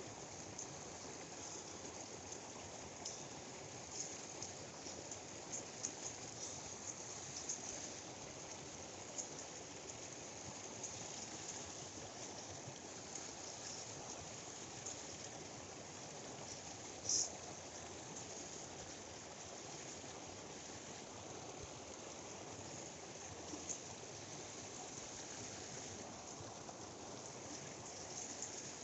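Mountain stream water flowing steadily, with scattered faint clicks and one brief sharp high sound about 17 seconds in.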